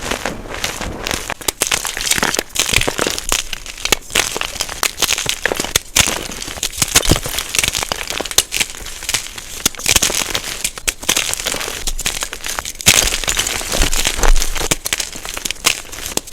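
Blocks of unpolished gym chalk being crushed, a dense unbroken run of crunching and crackling with many sharp cracks, played back at double speed.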